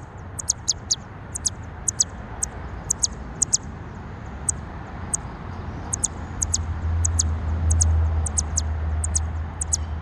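Small songbird giving rapid, sharp, high-pitched chirps, about three a second, the alarm calls of a parent bird agitated over its fallen fledgling. A low rumble swells under them in the second half, then fades.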